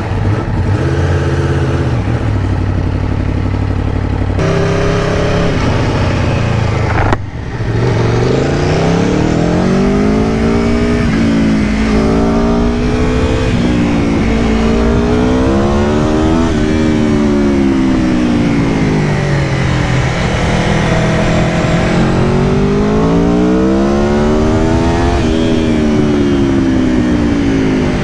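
2022 Aprilia Tuono V4 Factory's V4 engine, running steady and low at first, then pulling away with the revs climbing and dropping repeatedly through gear changes.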